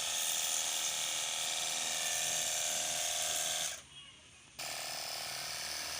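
Cordless 48V electric pressure washer gun running with a steady motor whine, stopping for under a second about four seconds in, then running again.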